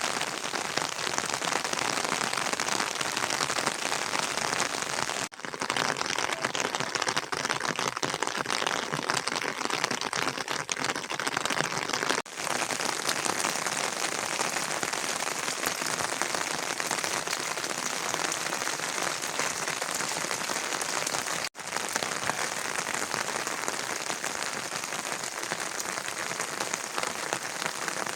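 Rain falling steadily, a dense even patter, with brief breaks about 5, 12 and 21 seconds in where the sound drops out and picks up again.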